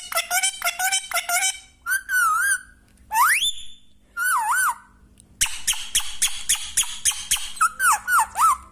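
Pet parrot calling: runs of rapid, repeated squawking notes, broken up by warbling whistles that waver up and down and one quick rising whistle about three seconds in.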